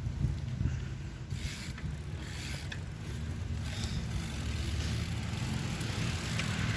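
Bicycle coasting, its freewheel ratchet ticking faintly over a steady low rumble of tyres and wind on the microphone.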